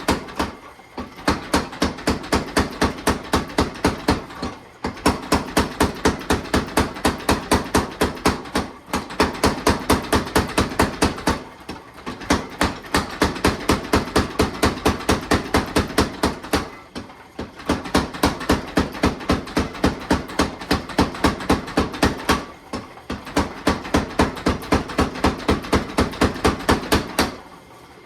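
Hammer forging hot steel bar stock: a fast, even run of hammer blows, broken every few seconds by short pauses.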